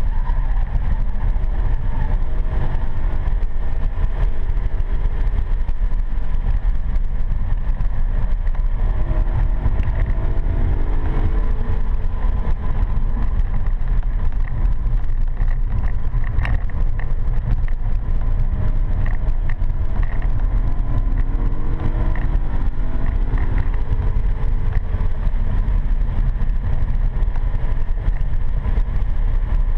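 BMW M3 E92's V8 engine and road noise heard from inside the cabin while driving hard on track: a heavy, steady low rumble, with the engine note climbing in pitch under acceleration twice, about ten and twenty seconds in.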